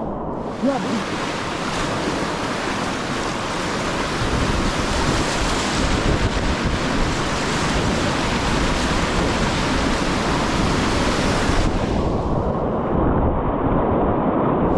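Whitewater of a river rapid rushing around a kayak, a steady loud noise of moving water with some wind on the microphone. About twelve seconds in the sound turns duller, its hiss cut off.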